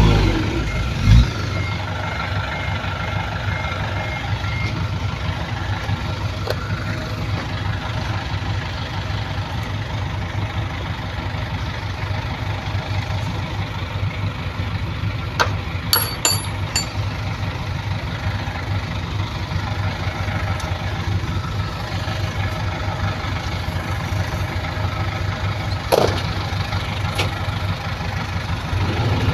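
Heavy-equipment diesel engine running steadily at low revs, with a few short knocks, including around the middle and near the end.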